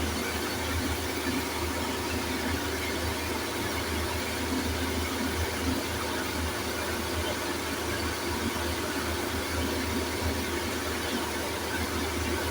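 Satake SB10D rice mill running, driven by a Yulin S2105A two-cylinder diesel engine: a steady low engine drone under a continuous hiss.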